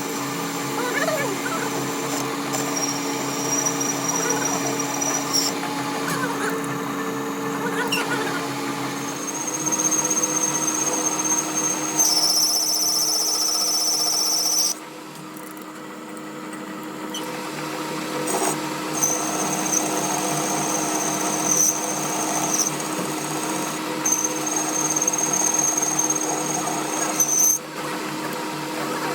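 Power tool running with a high whine that cuts in and out several times over a steady low hum, loudest and harshest about halfway through, then briefly quieter.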